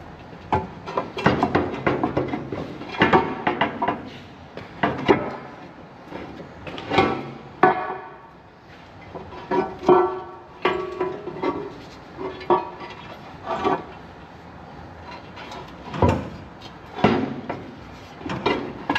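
Irregular knocks and clanks of hand tools against metal engine parts, some strikes ringing briefly, during a diesel engine teardown.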